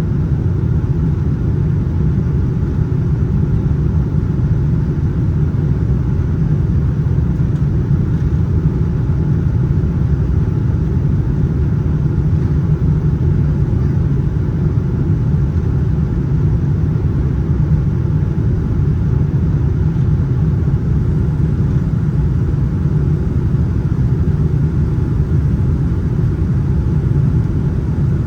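Steady, unchanging rumble of a Boeing 787-9 heard inside the passenger cabin in flight: jet engine and airflow noise, mostly low in pitch.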